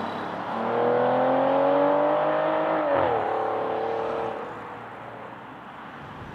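V12 supercar engine accelerating with its pitch rising steadily, then dropping sharply about three seconds in as it shifts up or lifts off. It runs on at the lower pitch for about a second, then fades away as the car goes.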